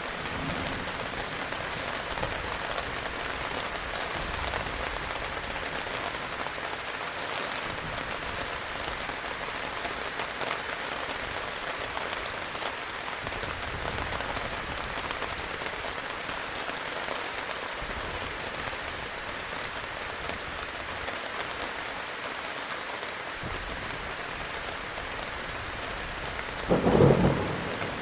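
Steady heavy rain falling, with one sudden loud thunderclap about a second before the end.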